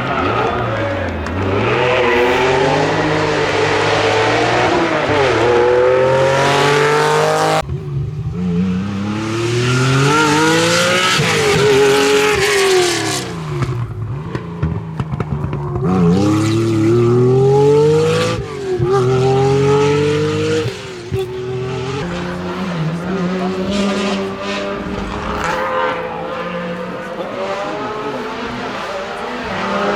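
Rally car engines revving hard, the pitch climbing through each gear and dropping at every shift, as several cars in turn accelerate along the stage.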